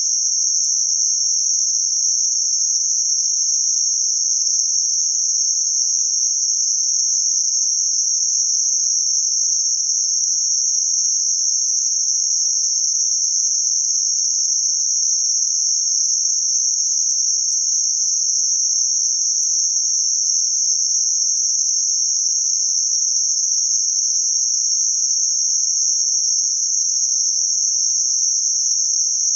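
Synthetic band-limited noise centred around 6051 Hz: a steady, high-pitched hiss with nothing in the low or middle range, unchanging throughout.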